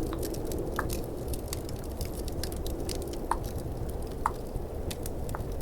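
Tongue clicks: four single wet pops a second or so apart, the middle two loudest, over the light crackle of a fireplace ambience and a steady low rush of snowstorm wind.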